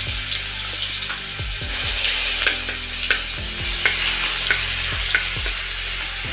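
Ginger, garlic and coriander paste sizzling in hot oil in a metal kadhai, stirred with a steel spoon that clicks against the pan about five times in the second half.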